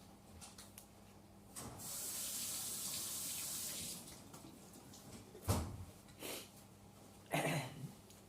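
A steady rushing hiss, like water running from a tap, lasting about two seconds, followed by two short knocks.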